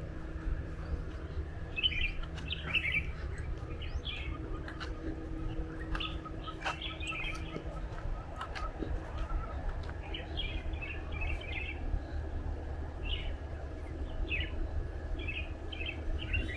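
Birds chirping in short, repeated bursts of high notes, with a low steady rumble underneath.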